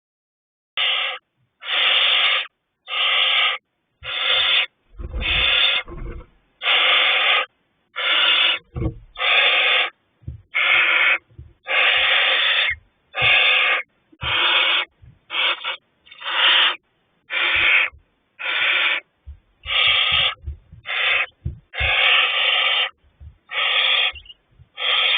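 Owlets in a nest box giving repeated breathy, hissing begging calls, each about half a second to a second long, one after another about once a second. A few low thumps come from the chicks moving in the box.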